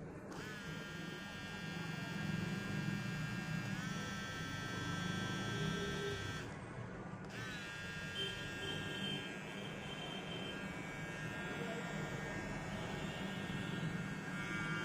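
VGR V-989 hair trimmer's motor running with a steady high-pitched whine over a low hum. It switches on just after the start, steps up in pitch about four seconds in, cuts out briefly about six and a half seconds in, and starts again.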